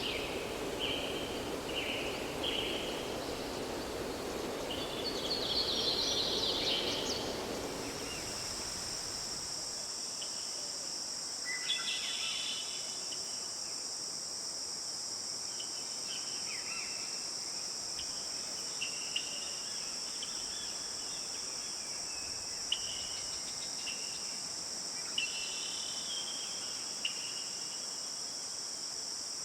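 Forest ambience: songbirds chirping over a steady rushing background for about the first eight seconds. Then the rush drops away and a steady high insect trill takes over, with scattered bird chirps continuing.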